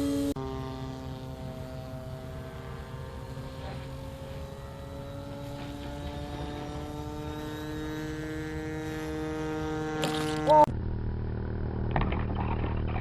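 RC helicopter's motor and rotor whine climbing steadily in pitch for about ten seconds, then a short loud crack with the whine jumping up as the main blades strike the tail boom and the helicopter comes apart in the air. After it, a lower steady hum and a few clicks.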